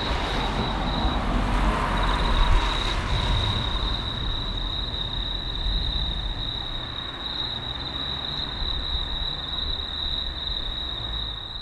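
Distant thunder rumbling low, strongest in the first few seconds and then slowly dying away, under a steady high trill of night insects.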